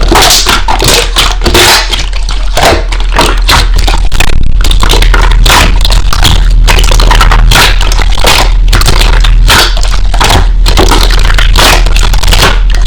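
Slime being squeezed and pressed by hand, giving a loud, fast run of crunching and crackling pops.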